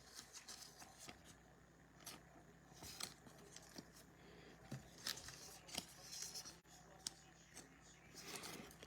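Near silence with faint, scattered clicks and rustles of trading cards and a foil pack wrapper being handled.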